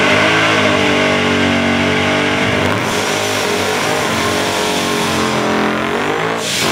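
Turbocharged 1970 Datsun drag car's engine revving up and down repeatedly during a burnout, its rear tyres spinning.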